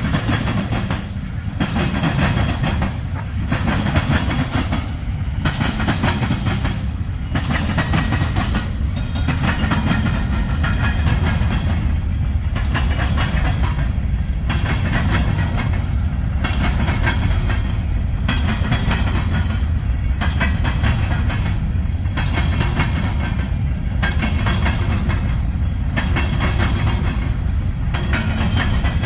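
Norfolk Southern manifest freight train's cars rolling past close by: steady wheel-on-rail rumble and clickety-clack over the rail joints, with a brief regular dip about every two seconds.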